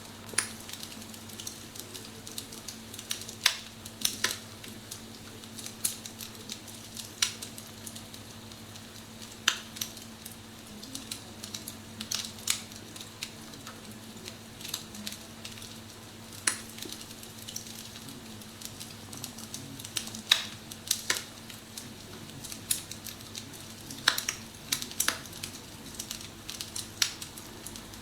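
Recorded wood-fire crackling played from a phone app inside an electric fireplace: irregular sharp pops and snaps, a few a second, over a low steady hum.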